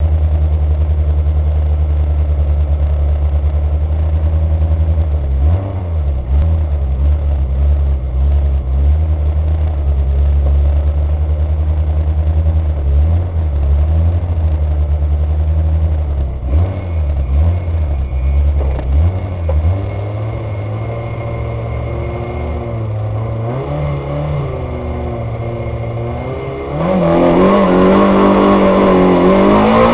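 Peugeot 106 rally car's engine heard from inside the cabin, running at the start line with the revs held up and blipped. About 27 seconds in it gets sharply louder and the revs climb as the car launches hard off the start.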